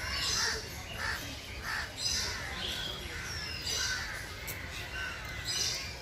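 Birds calling: short, raspy calls repeated about once a second, with thinner, higher chirps in between.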